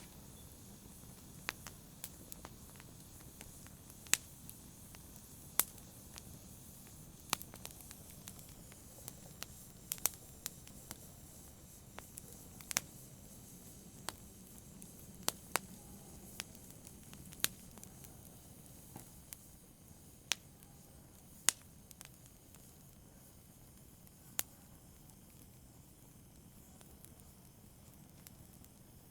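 Wood fire crackling in a fireplace: irregular sharp pops and snaps, a few every couple of seconds, over a soft low rumble of burning. The pops thin out and stop in the last few seconds.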